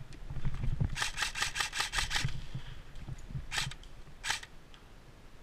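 Airsoft electric gun (AEG) firing a quick burst of about eight shots at roughly seven a second, followed by two single shots.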